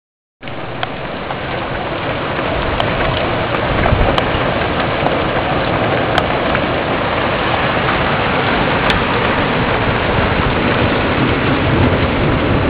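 Heavy rain pouring in a thunderstorm, a steady dense hiss that starts after a moment of dead silence and builds slightly over the first few seconds.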